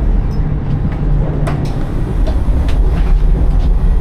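Steady low rumble of a Fuxing high-speed train running at speed, around 350 km/h, heard inside the carriage, with a few light clicks and knocks over it.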